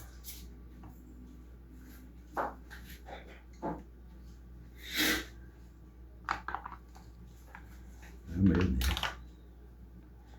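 Scattered short knocks and clicks over a low steady hum, with a brief hiss about five seconds in and a louder, deeper thump near the end.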